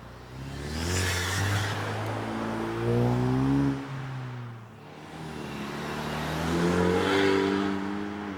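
A car accelerating hard, its engine note climbing steadily in pitch, dropping away about four seconds in, then climbing again to a second peak near the end.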